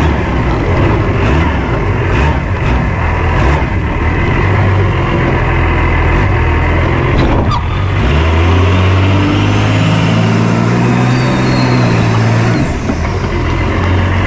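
Cummins diesel engine of a swapped monster truck running, its engine speed climbing about eight seconds in and dropping back near the end.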